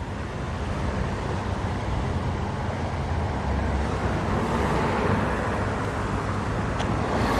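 Road traffic: a steady rush of cars passing close by, swelling slowly toward the end.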